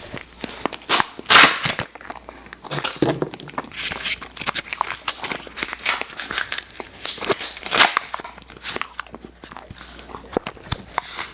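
Close-miked biting and chewing of candy, a run of small crackly clicks and smacks, with two louder bites, one about a second in and another later on.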